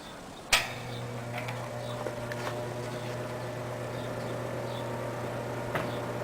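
Old two-speed Eskimo box fan switched on with a click about half a second in, then its motor hums and runs steadily with a plastic blade turning behind metal grates, working on its first run after its cut power cord was replaced with a spliced-on lamp cord.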